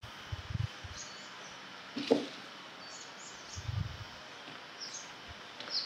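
Outdoor ambience: a steady hiss with several brief, high bird chirps scattered through it. A sharp click comes about two seconds in, and two low rumbles come near the start and again about three and a half seconds in.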